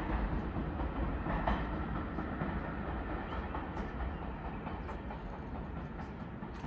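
R46 subway train running along the track, its wheels clicking over rail joints, the rumble slowly fading as it moves away.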